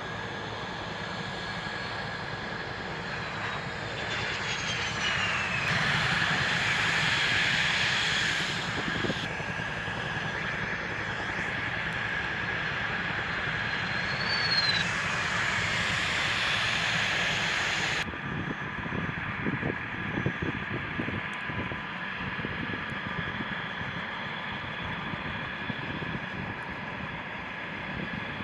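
F-16 fighter jet engines running, a steady hiss and whine with two falling pitch sweeps as jets pass, the loudest stretch a few seconds in. The sound changes suddenly about two-thirds of the way through to a quieter, thinner engine noise.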